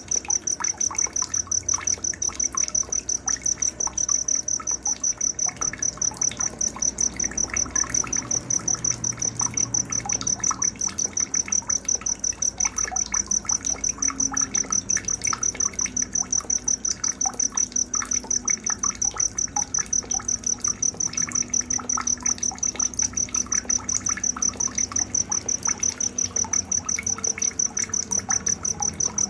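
A cricket chirping steadily in fast, evenly spaced high-pitched pulses, several a second, with faint scattered bird chirps underneath.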